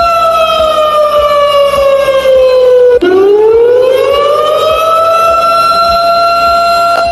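Siren wailing: its pitch slides down for about three seconds, drops suddenly, then climbs back up and holds steady.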